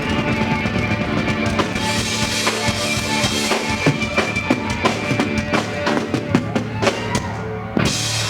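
Live rock band playing, with a drum kit beating out a rhythm under held guitar and bass notes. Near the end there is one big hit and then a held low chord.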